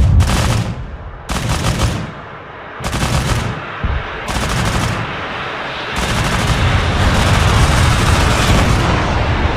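Rapid-fire 30 mm autocannon bursts from a Pantsir-S1: four short bursts about a second apart, then a longer burst of about three seconds starting about six seconds in.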